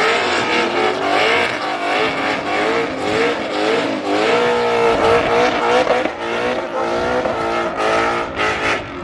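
A car doing a burnout: tires squealing with a wavering pitch over a loud revving engine, cutting off near the end.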